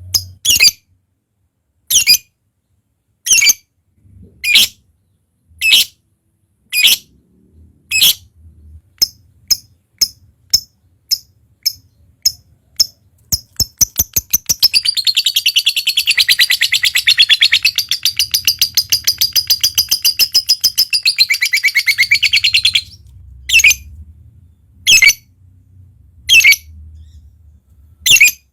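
Lovebird calling: sharp high chirps about a second apart that quicken into a fast run, then break into a long rapid chattering trill lasting about eight seconds (the 'ngekek' call), before single chirps resume.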